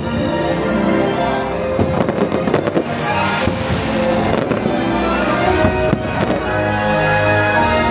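Fireworks bursting in a series of sharp bangs and crackles over loud show music, with clusters of bursts about two seconds in and again about six seconds in.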